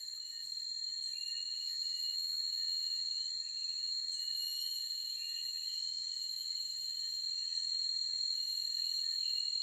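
Forest insect chorus: a steady, high-pitched drone of several unchanging tones, with short faint chirps breaking in every few seconds.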